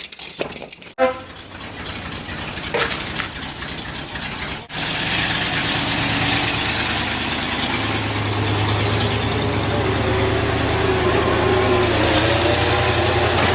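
The 1946 Chevrolet cab-over truck's 235 inline-six is being started after a head rebuild. There are clicks and a sharp knock about a second in, uneven mechanical noise, then from about five seconds in a steady engine sound that gets louder near eight seconds.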